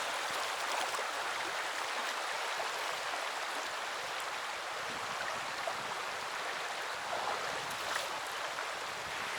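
Mountain river water flowing over rocks, a steady even rush.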